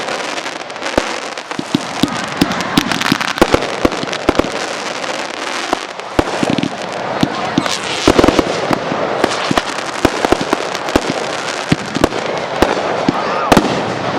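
Fireworks display: a dense, unbroken run of bangs and crackling as many shells burst in quick succession, with a few louder reports among them.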